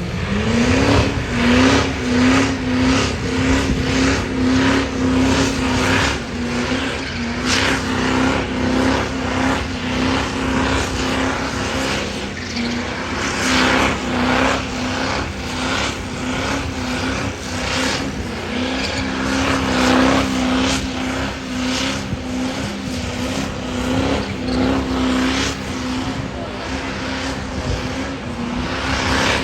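A high-horsepower truck engine running hard under load. Its pitch climbs in the first second and then holds steady, with repeated rough surges throughout.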